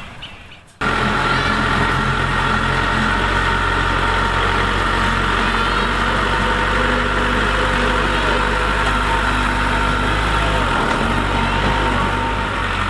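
Heavy diesel engine of construction machinery running steadily, cutting in abruptly about a second in.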